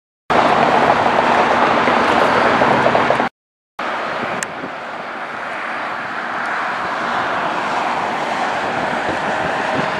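Jet airliner engines running with a loud, steady rush. The sound breaks off abruptly near the start and again after about three seconds, then a second stretch of engine noise runs on a little quieter.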